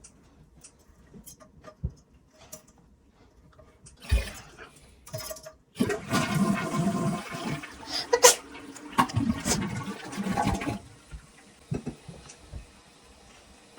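Toilet flushing, worked by its tank handle: a knock about four seconds in, then about five seconds of loud rushing water that drops off suddenly to a faint hiss.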